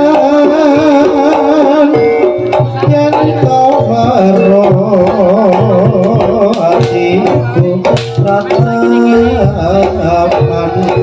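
Javanese jaranan gamelan music played live: hand-drum strokes driving a brisk rhythm under steady struck-metal notes and a wavering melody line, with a deep low note coming in about nine seconds in.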